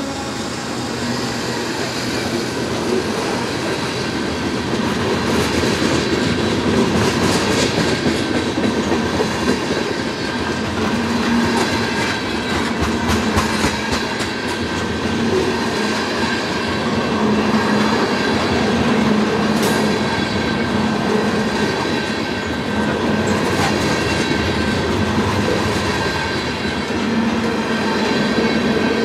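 Loaded freight cars of a Canadian National manifest train (tank cars and covered hoppers) rolling past close by: a steady rumble of steel wheels on rail, with clicks as the wheels pass over the rail joints.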